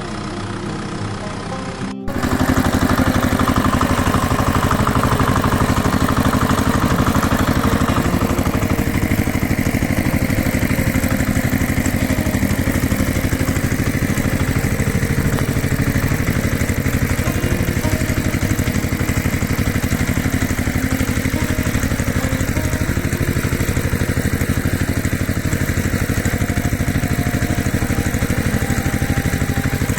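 An engine running steadily with a fast, even pulsing beat; it cuts in much louder about two seconds in.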